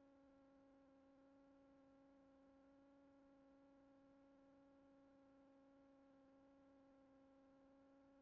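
Near silence: only a very faint, steady electrical hum on the intercom audio line, one unchanging tone with overtones.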